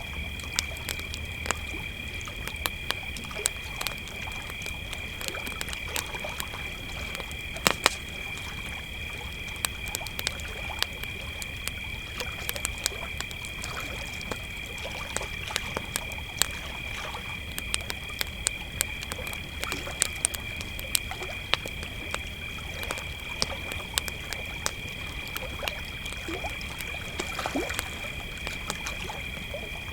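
Crickets trilling steadily over a crackling wood campfire, with frequent sharp pops and snaps from the fire; two louder pops come about eight seconds in.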